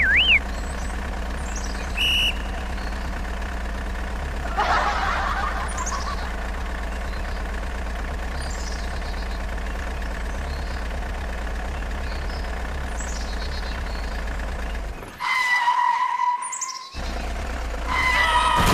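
A steady low vehicle-engine drone, with faint bird chirps high above it. The drone cuts out for a couple of seconds near the end, and two short steady tones follow.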